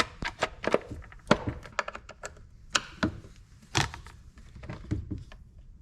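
A string of irregular clicks, taps and thunks as chainsaw parts are handled and fitted during reassembly; the engine is not running.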